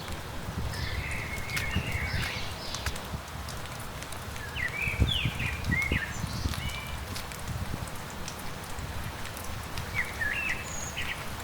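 Birds calling in three short bursts of chirping notes, over a steady patter of light rain with scattered drip ticks and soft footsteps.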